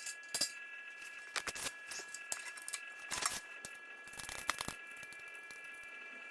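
Scattered light clinks and rattles of small hard objects, a few separate clusters, over a faint steady high whine.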